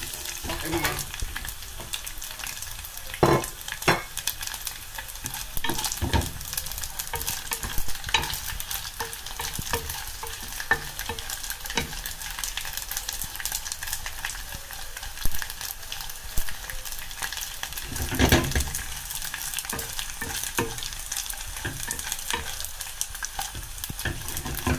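Dried anchovies sizzling and crackling as they fry in oil in a nonstick pot. A wooden spoon stirs them, scraping and knocking against the pot, with a handful of louder knocks scattered through.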